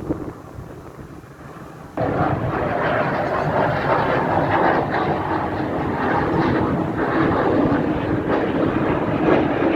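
Aircraft engine noise from a plane at an air show, loud and steady, cutting in suddenly about two seconds in.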